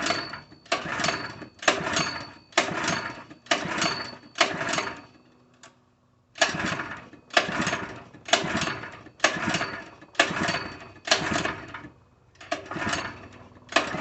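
Harbor Freight 3 HP small engine being cranked on its recoil pull-starter, about fourteen quick pulls in two runs with a short pause between, each a brief rasp of rope and turning engine that does not catch. The engine is fully choked and fails to fire, a no-start the owner puts down to a fuel delivery problem.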